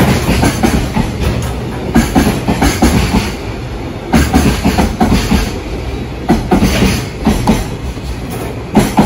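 Loaded JR Freight Koki container flat cars rolling past at speed. Their wheels clatter over rail joints in repeated heavy clunks about every second or so, over a steady low rumble.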